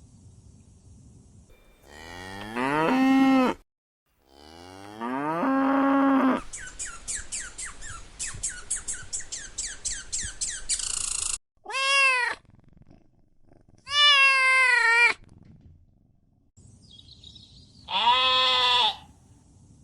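A run of separate animal calls, cut one after another: two rising moos from cattle, then a rapid string of short repeated calls for several seconds, then three meows from a cat.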